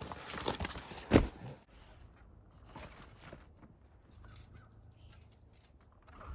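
Footsteps and handling noises in snow, with a sharp knock about a second in. The sound then drops abruptly to quiet outdoor air with a few faint bird calls.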